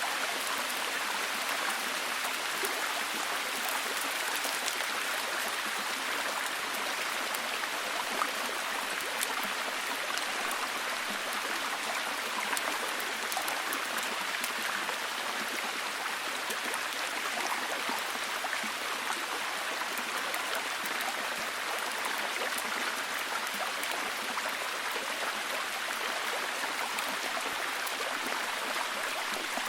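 Steady heavy rain: an even wash of falling rain with many small drop ticks, unchanging throughout.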